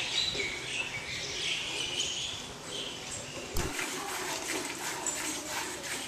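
Small birds chirping and calling in a busy, overlapping chorus. A short low thump a little over halfway marks an abrupt change in the sound, after which the calls become sharper and more clipped.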